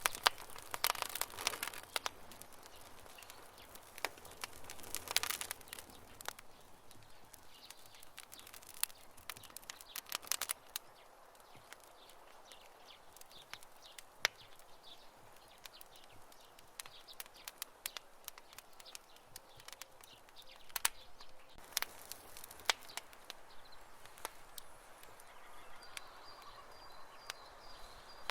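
Wood campfire crackling, with irregular sharp pops and snaps over a soft hiss and denser runs of crackles about a second in, around five seconds in, and again past twenty seconds.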